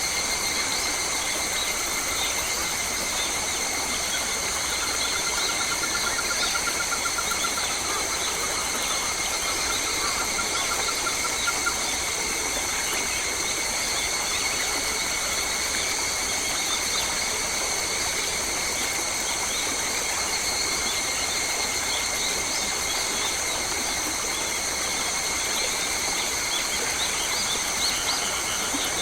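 Forest ambience: a steady high-pitched drone of several held tones, with scattered bird chirps over it. A rapid pulsed trill runs from about five to twelve seconds in.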